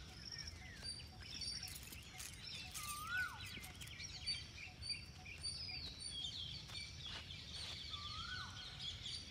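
Birds calling outdoors. One bird gives a short whistled call that rises and then drops, repeated about every four seconds, over many quick high chirps and trills from other birds and a low steady rumble.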